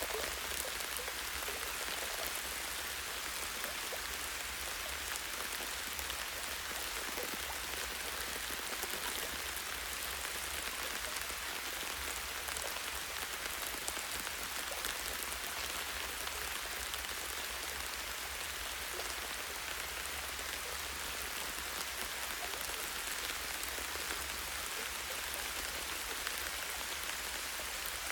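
Light rain falling steadily on tree leaves and branches: a dense, even patter of small drop ticks over a low steady rumble.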